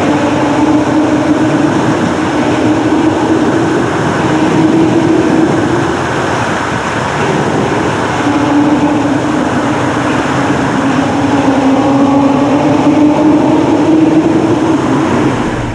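1995 Ford Probe's 2.5-litre KL-DE V6 droning at a steady cruise, mixed with heavy road and wind noise. The engine note wavers slowly and drops back for a couple of seconds about halfway through before returning.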